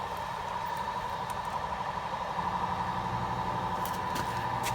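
Steady mechanical hum with a constant high tone; a lower drone joins it about halfway through.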